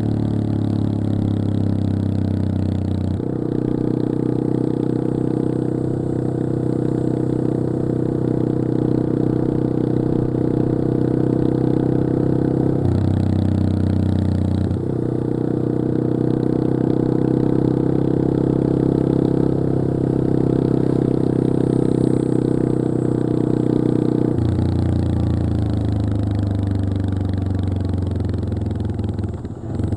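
Yamaha XT225 Serow's air-cooled single-cylinder four-stroke engine running under way. The engine note steps up about three seconds in, sags briefly around the middle, and drops lower near the end as the rider changes throttle and gears.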